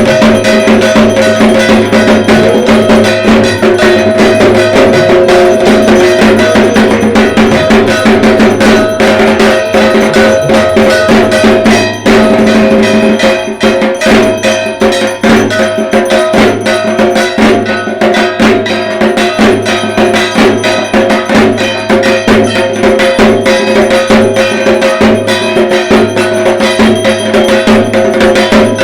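Dhak drums played in a fast, dense, unbroken rhythm, with a struck metal bell or gong clanging along and ringing steadily, as at Durga Puja.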